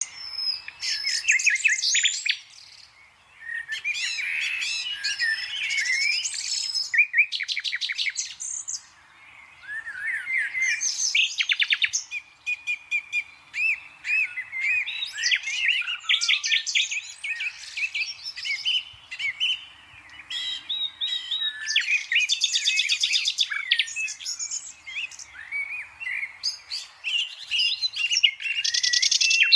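A green parrot chattering nonstop: a fast jumble of chirps, short whistles and rattling trills, with brief lulls about three and nine seconds in.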